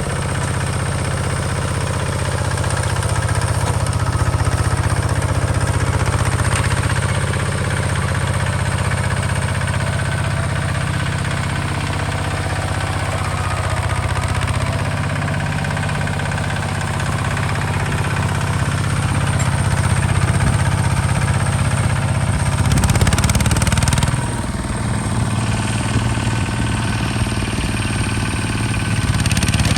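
Hinota HG Gold 155 DI tractor's diesel engine running steadily. It gets louder for a moment a little after two-thirds of the way in, then drops back suddenly.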